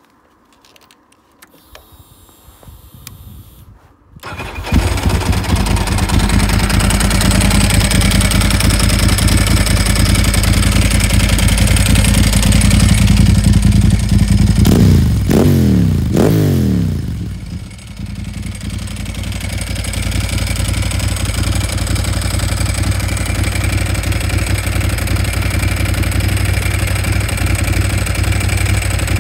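Ducati 998's L-twin engine turned over on the starter and firing about four seconds in, then idling. Around the middle it is revved in a few quick throttle blips, then drops back to a steady, slightly quieter idle.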